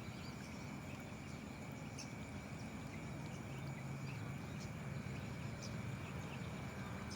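Steady outdoor ambience by a river: an even low rushing noise with a faint steady high tone and a few faint ticks.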